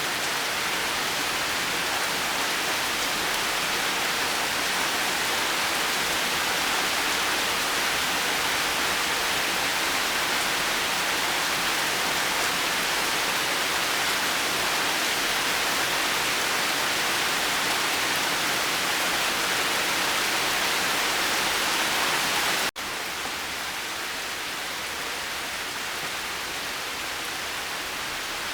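Steady rain falling, an even dense hiss. About 23 seconds in it cuts out for an instant and resumes slightly quieter, like a splice between recordings.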